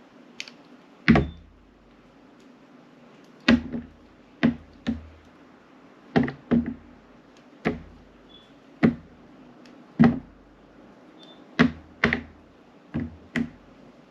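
A knife cutting through glycerin soap, about a dozen sharp cuts at uneven intervals, some in quick pairs. Each cut ends in a crisp knock as the blade strikes the cutting surface.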